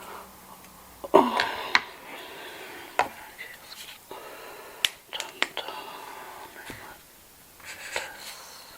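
Cash register being worked: a series of sharp mechanical clicks and clacks a second or two apart, with the loudest cluster about a second in, alongside soft whispering.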